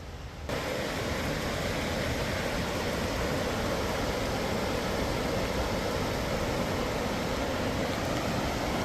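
Steady rushing of water, starting abruptly about half a second in.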